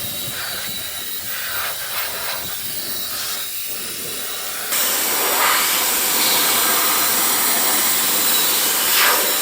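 COLBOR AirMaxx A1 mini jet fan running, a rushing hiss of air with a thin high whine. About five seconds in it gets abruptly louder and its whine jumps much higher.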